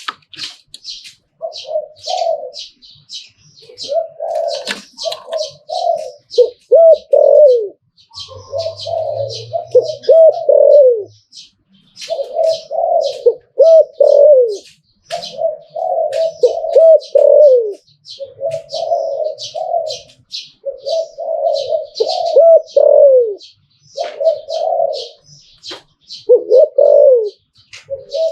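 Spotted dove cooing over and over, its phrases coming every few seconds with short gaps between, while small birds chirp rapidly at a much higher pitch.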